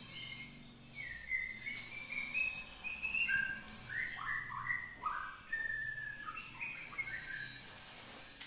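A young murai, a Copsychus songbird, is beginning to sing. It gives a continuous run of short whistled notes and chirps that step up and down in pitch.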